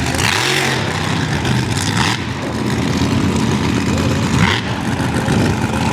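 Mega truck engine running and revving, with a short dip and rise in pitch soon after the start. Three brief bursts of noise break in over it.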